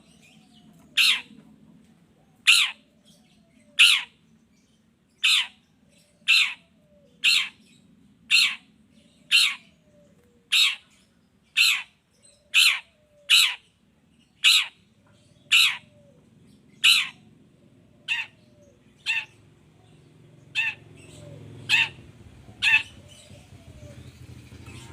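Long-tailed shrike (pentet) giving a long series of short, sharp calls, about one a second, some twenty in all.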